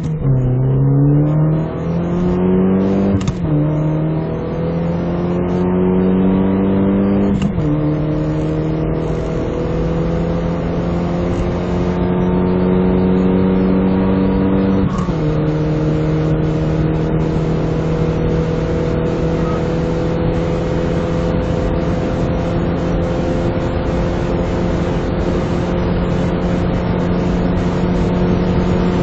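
2005 Toyota Yaris TS's 1.5-litre four-cylinder engine accelerating through the gears through a badly broken exhaust. Its pitch rises and drops at gear changes about 3, 7 and 15 seconds in, then climbs slowly in top gear.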